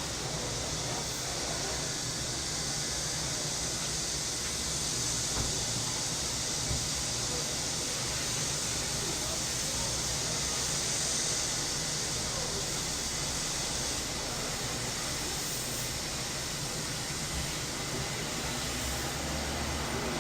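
Summer cicada chorus: a steady, high-pitched buzzing hiss that swells slightly midway, over a faint low background rumble.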